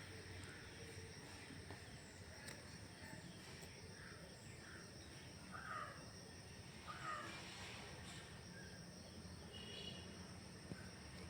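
Faint outdoor background with a few short bird calls about halfway through, and a brief higher chirp near the end.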